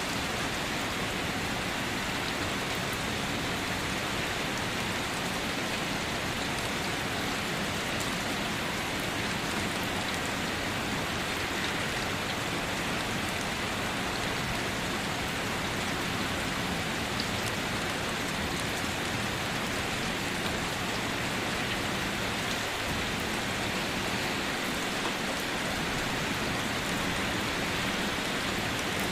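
Steady rain falling on surfaces, an even hiss of many drops with faint scattered patters.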